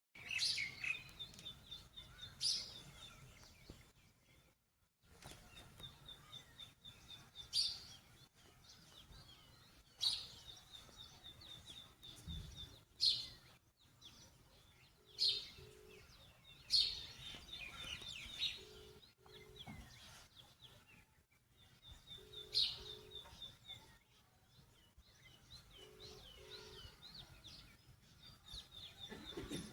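Wild birds chirping and singing: sharp high calls every few seconds and a fast, even trill that comes back again and again. In the second half a low two-note call repeats four times, about every three and a half seconds.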